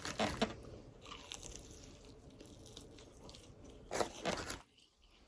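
Biting into crispy fried food and chewing it close to the microphone, with a few small crunches early on and one louder crunch about four seconds in.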